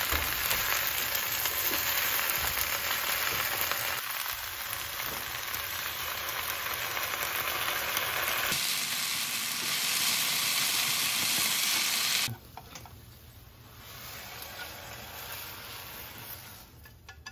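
Water spinach sizzling as it is stir-fried in a hot frying pan with chopsticks. The sizzle cuts off suddenly about twelve seconds in, leaving only faint sound.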